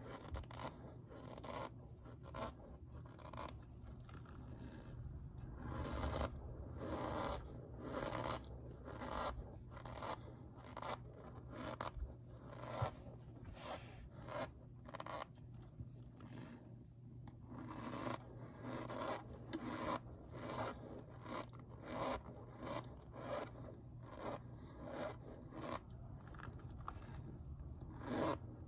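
Cold Kingsford's cornstarch being squeezed over and over, squeaking and crunching, with repeated squeezes about one a second.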